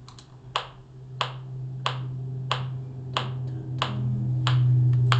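Metronome ticking at an even beat of about one and a half ticks a second, over a steady low hum.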